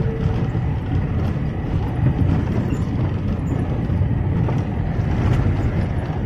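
VAZ-2107 (Lada Classic) driving, with a steady low rumble of road and car noise and a few knocks from its suspension, the running-gear knock of worn chassis parts.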